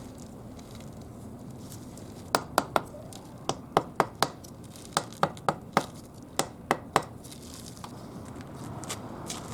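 A brick being tapped down into mortar with a hard tool: about fourteen sharp, ringing taps in quick groups of three to five, starting a couple of seconds in and stopping about two seconds before the end.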